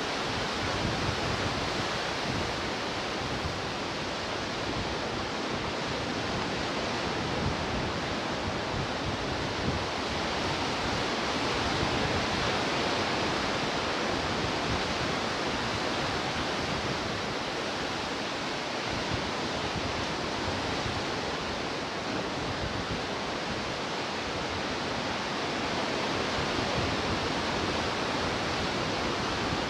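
Ocean surf: waves breaking and washing ashore as a steady rush, swelling gently a couple of times.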